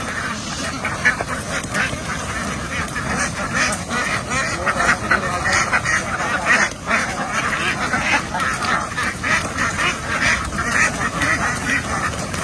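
A large flock of domestic ducks quacking, many overlapping calls forming a constant chorus with no pauses.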